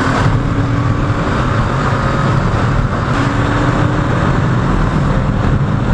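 Kawasaki Ninja 650's parallel-twin engine running at a steady highway cruise, buried under loud, constant wind noise on the rider's microphone.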